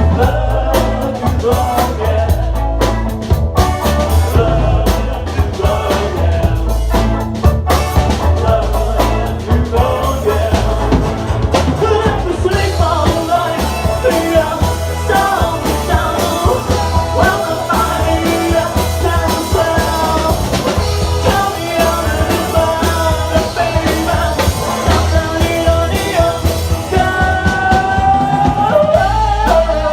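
Rock band playing live and loud, with a drum kit and a heavy bass under sustained melodic lead lines.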